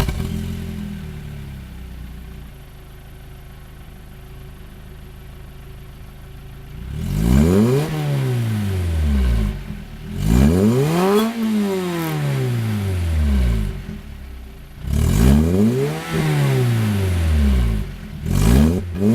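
Lotus Elise engine through an aftermarket HKS exhaust, idling for about seven seconds and then free-revved four times, each rev rising and falling in pitch, the last a short blip.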